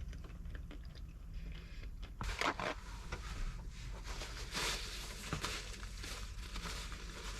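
Someone eating: chewing, with small irregular crunches, clicks and scrapes of food and utensils, over a low steady hum.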